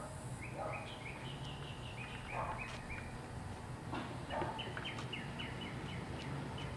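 Songbirds chirping outdoors: a string of short, quick chirps, each sliding downward, repeated through the whole stretch over a steady low hum.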